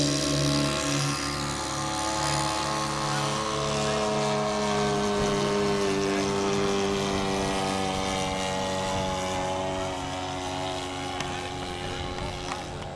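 Propeller engine of a radio-controlled model airplane running in flight. Its pitch drifts slowly up and down, and it grows a little fainter near the end.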